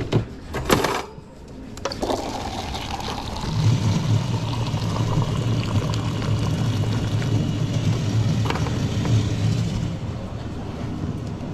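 Espresso machine running its pump and dispensing liquid while a large Americano is made: a steady hum with a hiss of running liquid for several seconds, easing off near the end. It follows a few sharp knocks in the first second.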